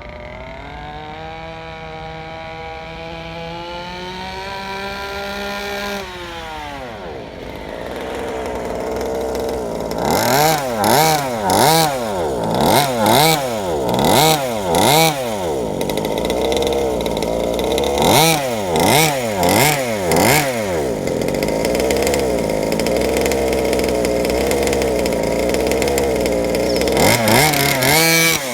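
32cc two-stroke Rovan engine on a Baja 5b RC car, running through a DDM Side Dominator pipe while being broken in. It climbs steadily in pitch, drops back, then is revved in short blips about once a second, settles into steady running, and is blipped again near the end.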